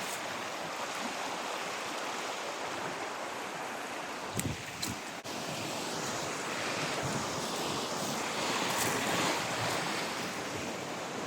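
River water rushing steadily, swelling a little toward the end, with a couple of soft thumps about four and a half seconds in.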